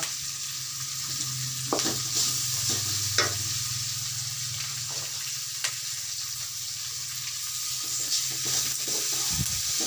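Sliced onions with green chillies and garlic frying in oil in a steel kadai, giving a steady sizzle. A wooden spatula stirring them scrapes and knocks against the pan now and then, over a low steady hum.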